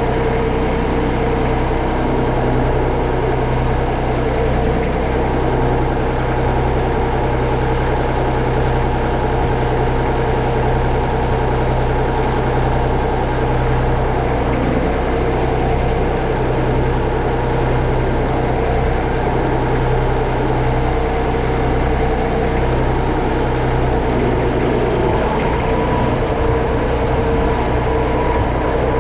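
Massey Ferguson 35X tractor's three-cylinder Perkins diesel engine running steadily at an even speed.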